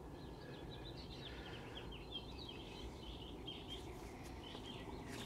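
Faint birdsong: many quick chirps from small birds, over a low, steady background noise.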